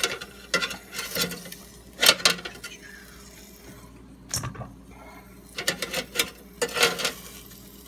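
A series of sharp clicks and clatters from a kitchen utensil knocking against an air fryer basket and dishes as cooked chicken is lifted out, bunched about two seconds in and again near the end.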